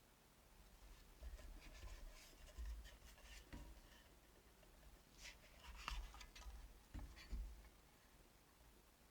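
Faint scratching and rubbing with small clicks and soft low knocks, in two short clusters, the second near the middle.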